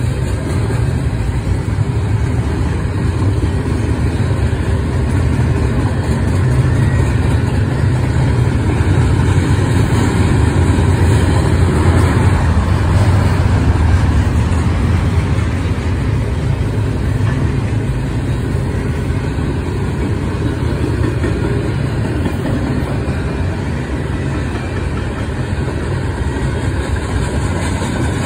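BNSF double-stack intermodal freight train's container well cars rolling past on the rails: a steady low rumble, a little louder partway through.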